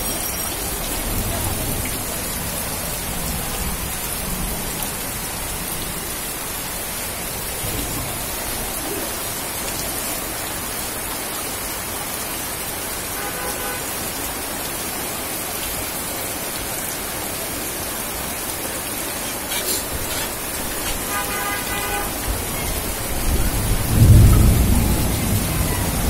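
Heavy rain falling steadily onto a flooded street, a dense even hiss of drops on the standing water. It swells louder and lower near the end.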